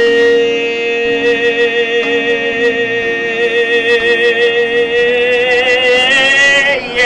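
A singer holding one long high note on "say" without a break, the vibrato growing wider near the end, over a quieter accompanying tone.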